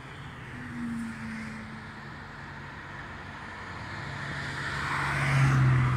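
Highway traffic, with a car passing close that grows louder to a peak near the end and then eases off.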